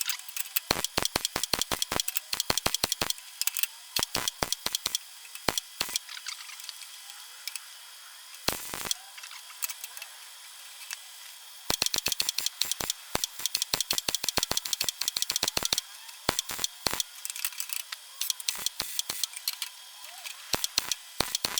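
Arc welding on an exhaust pipe: irregular runs of sharp crackling and spattering pops in bursts, stopping and starting again, with a longer hissing burst about eight and a half seconds in.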